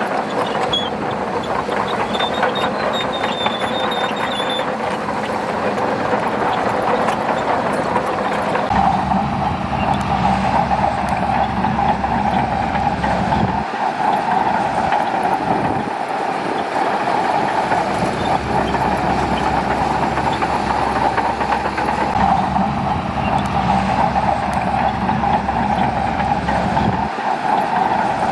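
Shantui crawler bulldozer running, its diesel engine and steel tracks clattering as it pushes sand. A heavier low engine rumble comes in about nine seconds in and drops out briefly a few times.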